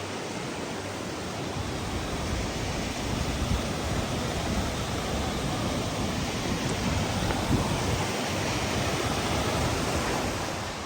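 Steady rushing roar of a waterfall, getting a little louder in the middle and easing off near the end.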